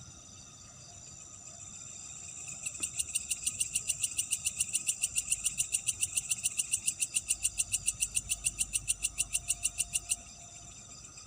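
Night insects calling. One loud, rapid pulsed call of about seven pulses a second starts a couple of seconds in and stops abruptly near the end, over a steady high-pitched insect chorus.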